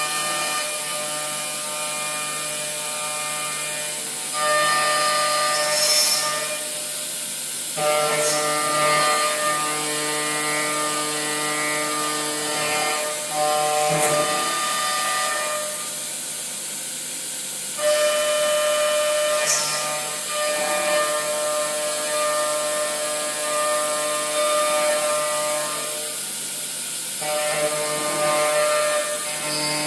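High-speed milling spindle on an industrial robot arm cutting: a steady whine of several tones over a hiss. The tones and loudness shift every few seconds, stepping up about 4, 8 and 18 seconds in as the cutting load changes.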